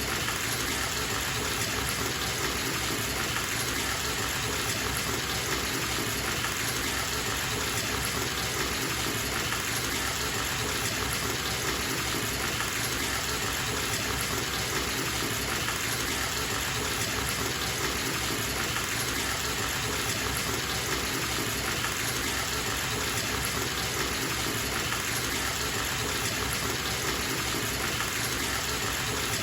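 Bathtub tap running full, water pouring into the tub in a steady, unbroken rush.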